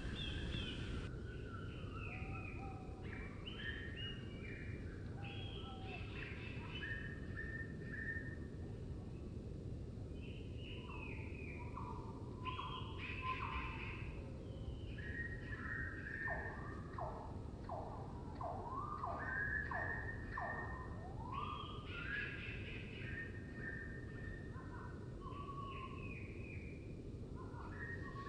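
Woodland birdsong slowed down two and a half times, so the calls come out lower and drawn out. Several birds sing overlapping phrases throughout, with a run of about eight falling notes in the middle, over a steady low background noise.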